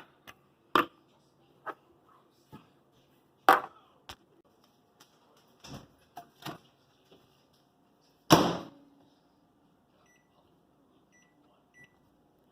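A series of scattered knocks and clatters of dishes and a microwave oven, the loudest about eight seconds in, then three short faint beeps from the microwave oven's keypad near the end.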